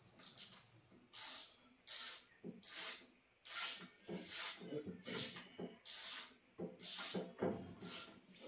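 A wrench tightening a spark plug back into a snowblower engine: about a dozen short rasping strokes, roughly one every two-thirds of a second.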